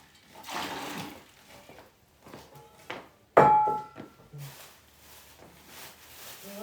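Handling noises, then one sharp clank of a hard object about three and a half seconds in, ringing briefly with a clear tone.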